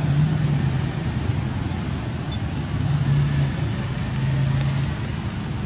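Steady traffic noise: a low engine hum that swells a few times, over a constant noise haze.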